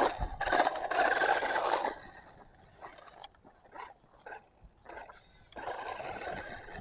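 Radio-controlled car driving in short spurts, its motor and wheels making a noisy rush over the ground. The longest and loudest run comes about a second in, short bursts follow, and another run starts near the end.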